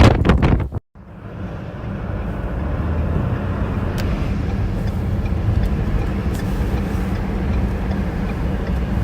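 Blizzard wind gusting hard on the microphone, cut off abruptly under a second in; then a steady low rumble with a fainter hiss above it.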